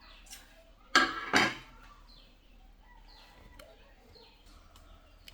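Two clattering knocks of hard objects handled on a workbench, about half a second apart. Small birds chirp faintly in the background.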